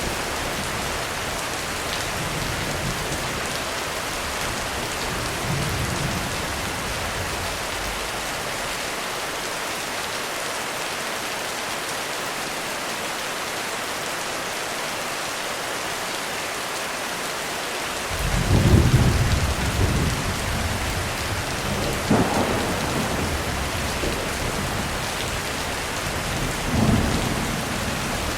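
Heavy rain falling on a roof as a steady hiss, with thunder: a faint low rumble early on fades out, then a loud roll of thunder breaks in about two-thirds of the way through and rumbles on in waves.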